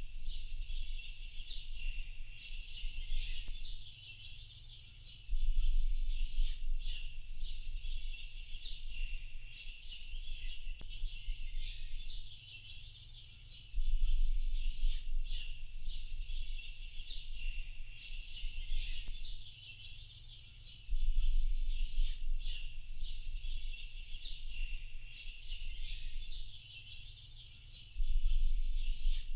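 Dense chorus of many small birds chirping without a break, over a low rumble that swells up four times, about every seven seconds.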